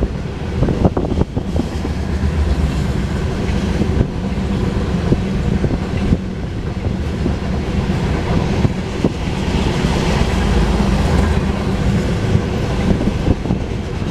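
Empty grain cars of a freight train rolling past, steel wheels clicking over the rail joints above a steady rumble.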